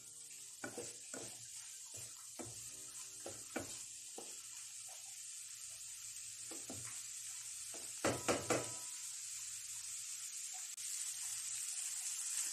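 Red bell pepper and shrimp frying in a non-stick wok with a steady sizzle, stirred with a wooden spatula that scrapes and knocks against the pan. Three louder knocks come close together about eight seconds in.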